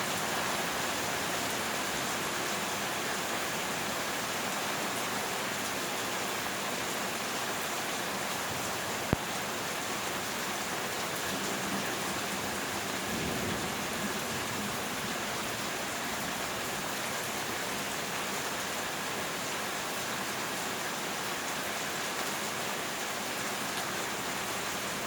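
Steady heavy rain hissing down during a thunderstorm, with a faint low rumble of distant thunder about halfway through. A single sharp click is heard about nine seconds in.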